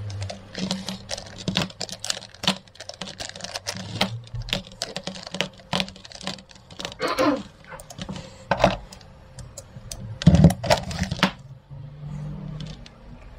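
Dense, irregular clicking and clattering of hard plastic parts being handled, with a louder cluster of knocks about ten seconds in.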